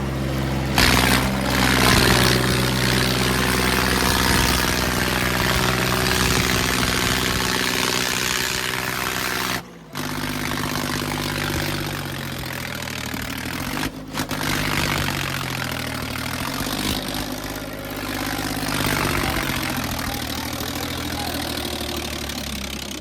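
Tractor diesel engine running hard under load in a tractor pulling contest. Its note is steady at first, cuts out for a moment about ten seconds in, then rises and falls as the engine revs up and down.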